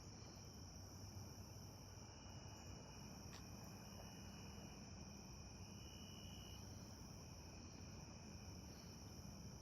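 Insects chirring outdoors in a steady, faint high-pitched drone, with a few short, lower-pitched trills mixed in.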